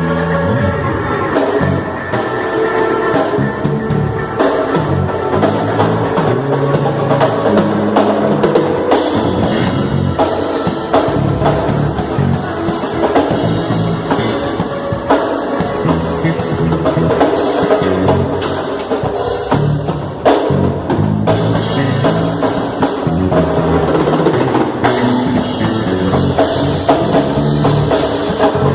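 Rock music played on drum kit, bass and electric guitar, with a steady beat and no vocals.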